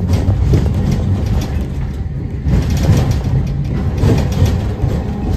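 Nagasaki Electric Tramway streetcar running on its rails: a steady low rumble with rattling and clatter.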